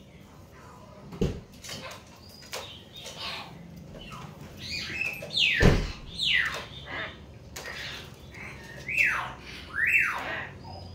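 Hill mynas calling: a series of loud, sharp whistled calls that sweep quickly down in pitch, the loudest in the middle and near the end, with a couple of dull thumps among them.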